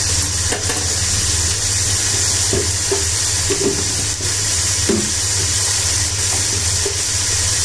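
Chicken pieces frying in oil in a pot, a steady sizzle as the chicken browns and its oil separates out, with a steady low hum underneath.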